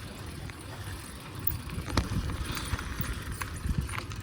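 Bicycle being ridden, with a low rumble of wind and road noise on the microphone and a few sharp clicks and rattles from the bike, the loudest about two seconds in and several more near the end.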